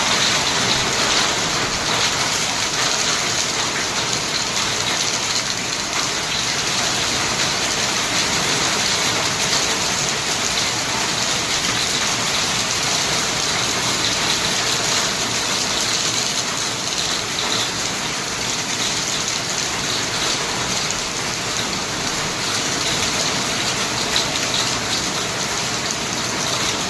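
Hail and rain falling hard, a dense steady patter of stones and drops striking surfaces, peppered with fine sharp clicks.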